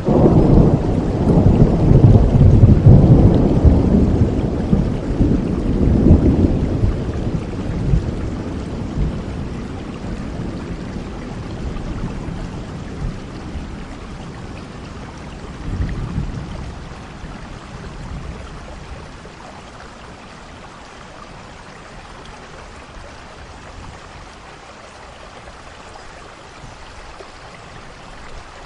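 A long roll of thunder rumbling, loudest in the first six seconds with another swell about sixteen seconds in, then dying away. Steady rain runs underneath throughout.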